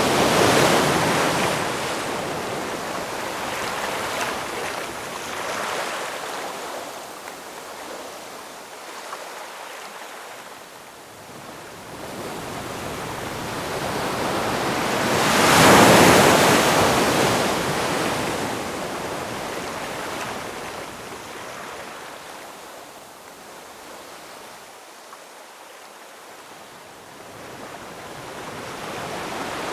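Ocean surf: waves swell and wash out in slow surges, the loudest about halfway through, with another building near the end.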